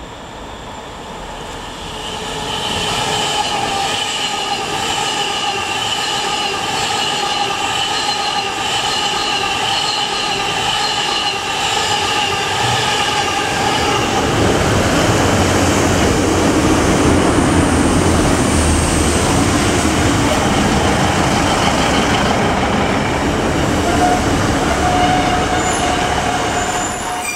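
Passenger trains running past on the main line. First comes a steady whine of several tones as a train draws near, then from about halfway a louder rumble and rush of wheels on rail as a train passes close by, with a short steady squeal near the end.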